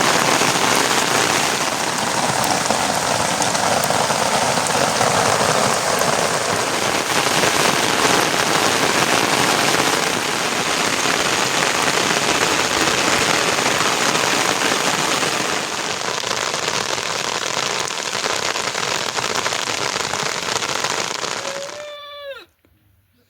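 Steady heavy rain falling on surfaces. It cuts off suddenly near the end, just as a short animal call sounds.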